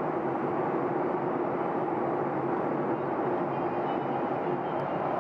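Steady cabin noise inside a Boeing 737-800 in flight: the rush of airflow and the hum of its CFM56-7B turbofans at a constant level.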